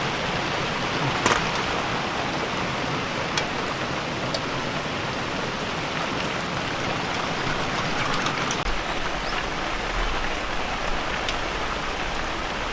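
Heavy, steady typhoon rain falling, with a few small clicks and knocks over it.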